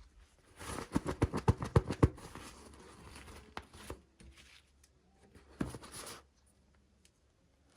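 Small plastic toy pieces and packaging handled by hand: a quick run of clicks and rustles about a second in, fainter rustling after, and another short rustle near six seconds.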